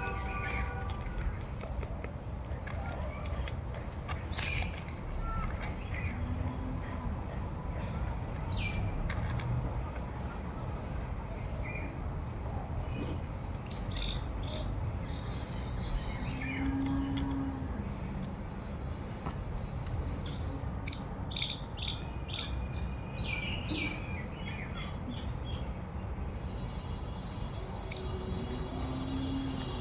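Outdoor ambience of a steady, high insect drone with scattered short bird chirps and calls, over a low rumbling background.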